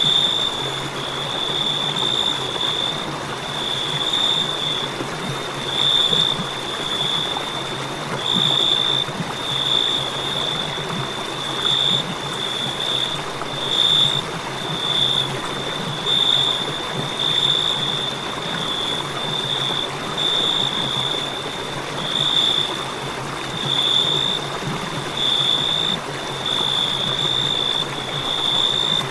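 Crickets trilling: one continuous high-pitched note that swells in pulses about once a second, over a steady hiss.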